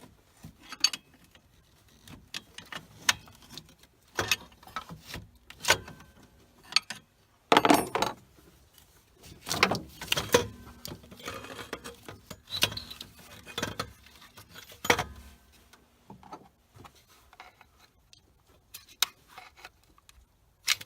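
Irregular metal clinks, knocks and scrapes as a wedged, seized alternator is worked loose from its mount on a Chevy truck, with a few louder knocks among them.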